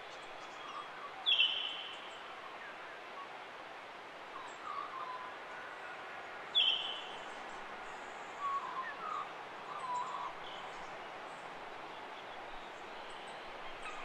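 Wild forest birds calling over a steady background hiss: two loud, sharp calls about five seconds apart, each dropping slightly in pitch, with softer, lower calls in between.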